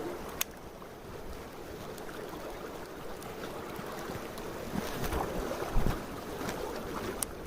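Mountain stream water rushing steadily, with a few sharp clicks and a low bump about six seconds in.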